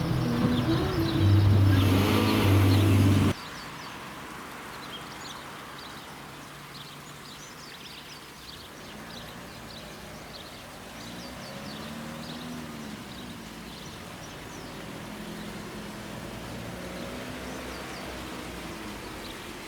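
Music with held low notes for about three seconds, cutting off suddenly. After it comes outdoor ambience of small birds chirping, and a motor vehicle passing in the middle, its engine note rising and then falling.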